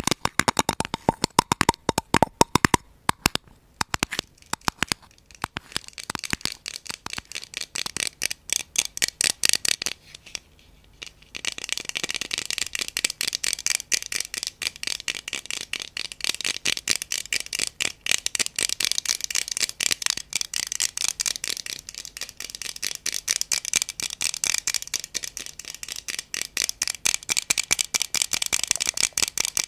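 ASMR tapping and scratching close to the microphone: a fast run of taps, a short pause about ten seconds in, then a denser, brighter stretch of rapid tapping and scratching.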